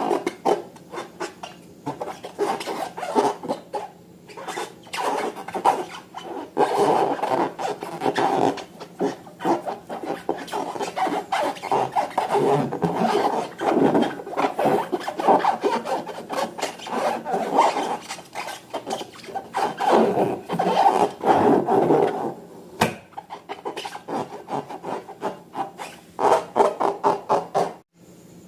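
Slime being mixed and squeezed by hand: a continuous run of sticky, wet crackling and clicking that swells and fades unevenly, with a short break near the end.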